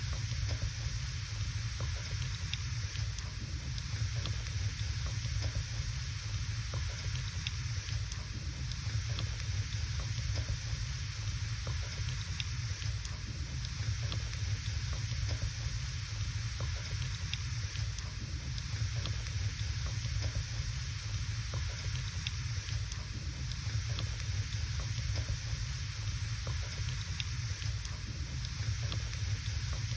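Wood fire burning in a fireplace: a steady hiss and low rumble with small crackles and pops scattered irregularly throughout.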